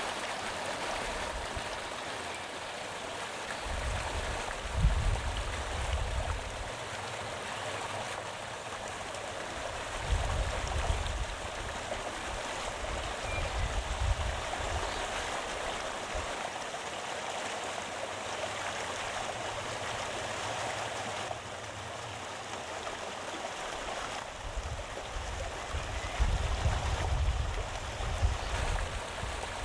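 Waterfall rushing steadily, with low rumbles that swell and fade several times.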